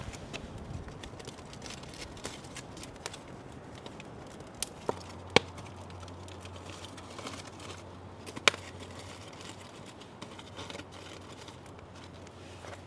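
Open wood fire crackling: a steady low hiss with scattered sharp pops, the loudest about five and eight and a half seconds in.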